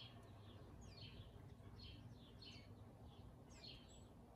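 Faint chirping of a small songbird: a steady run of short, high, falling chirps, two or three a second, over a low background hum.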